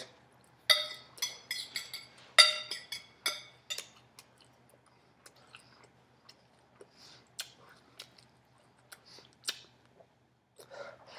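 A person eating close to the microphone: wet smacks and chewing clicks, a quick run of sharp ones in the first few seconds, then sparser, fainter ones.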